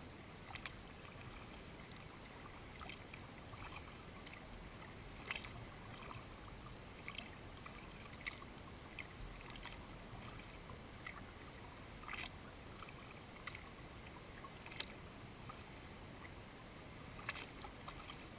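Kayak paddling on calm water: faint drips and small splashes from the paddle every second or so over a steady low hiss.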